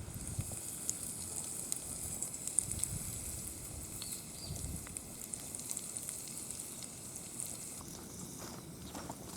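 Small wood fire crackling with a steady hiss and scattered pops.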